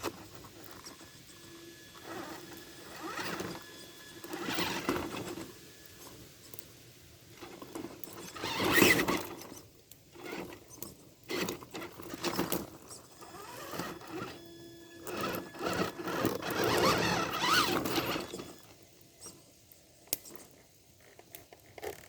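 Tamiya TXT-2 RC monster truck's electric motor and gears whining in repeated throttle bursts, each swelling and dying away, the longest about nine seconds in and another from about sixteen to eighteen seconds.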